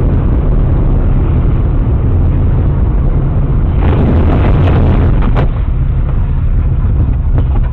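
Loud, steady low rumble of vehicle and road noise, with a cluster of sharp knocks about four to five and a half seconds in.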